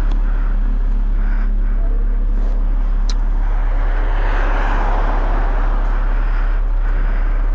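Yamaha MT-10 motorcycle engine idling steadily, a low even pulse. About four seconds in, the sound of another vehicle passing swells and fades over it.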